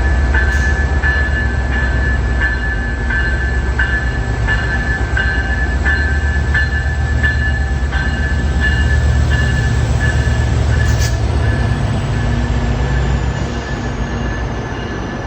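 GO Transit commuter train passing: a heavy, steady rumble with a regular click about every two-thirds of a second. Near the end a faint high whine slowly falls in pitch as the rumble eases.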